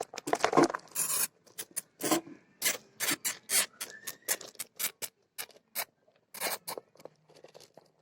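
Hamsters fighting: a quick, irregular run of scrabbling and scratching, many short scratchy clicks and scrapes.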